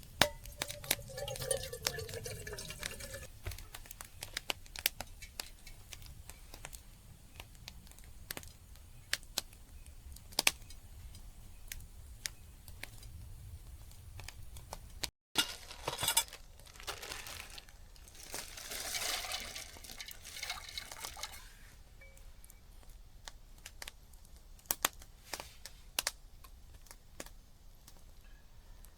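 Campfire crackling with scattered sharp pops. In the first few seconds water is poured from a bottle into a cooking pot with a gurgling, shifting tone, and later there are a couple of stretches of rushing noise.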